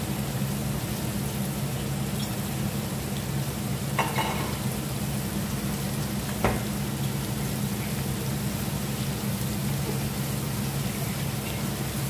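Food sizzling in a pot on a gas stove, a steady hiss over a low steady hum, with two short clinks about four and six and a half seconds in.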